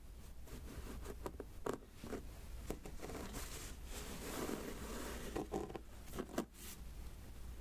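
Close-up handwork on a diamond painting: small taps and clicks of resin beads and tools on the sticky adhesive canvas, with a scratchy, crackling rustle that thickens about halfway through.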